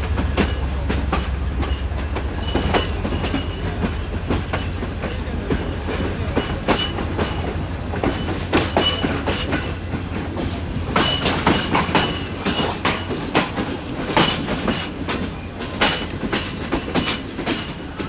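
Karakoram Express passenger train running on the track, heard from a coach: wheels clattering over rail joints with frequent irregular knocks and brief high squeals now and then. A low drone fades out about three seconds in.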